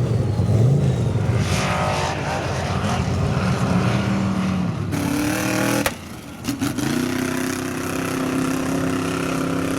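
Off-road vehicle engine revving, its pitch rising and falling. About six seconds in the sound briefly drops away, then an engine holds a steady high rev.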